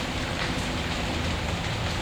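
Steady rain ambience, an even dense hiss with a low rumble underneath, layered with a fireplace giving a few faint pops.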